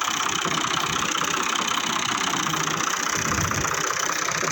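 A 480 tractor's diesel engine running steadily with an even firing rhythm.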